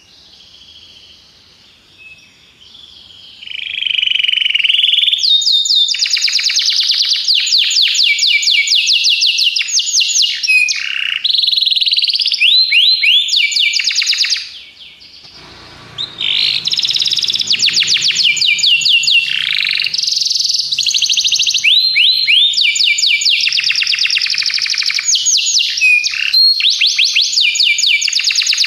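Domestic canary singing a long song of rapid trills, each a fast run of identical high chirps, switching from one trill to the next. It starts soft, comes in loud about five seconds in, breaks off briefly about halfway, then trills on.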